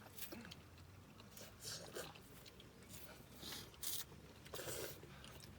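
Someone chewing and biting into food, with a few short, soft crunches.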